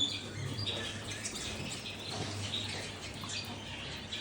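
Many small cage birds chirping and twittering together in a steady, overlapping chorus of short high calls.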